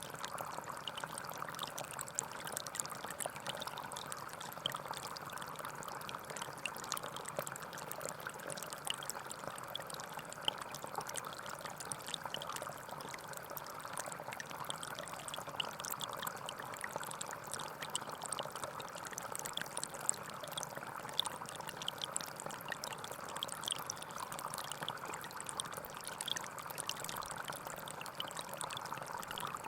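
Small forest stream flowing and trickling steadily, with a constant splashing and bubbling of water over stones.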